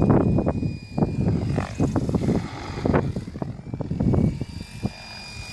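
Mikado Logo 600 electric RC helicopter in flight: a steady high motor and rotor whine that dips briefly about halfway through, then returns, over irregular low rumbling gusts.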